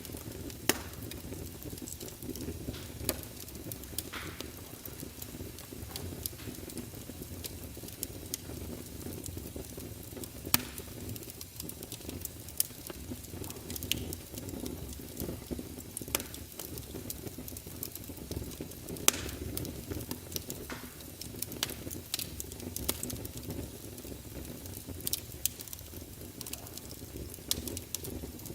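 Wood fire crackling in a fireplace: irregular sharp pops and snaps over a steady low rumble of the flames, with a few louder snaps scattered through.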